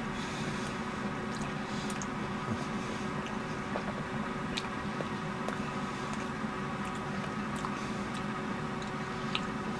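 A person chewing a bite of ketchup-topped corn dog, with a few scattered soft mouth clicks, over a steady room hum.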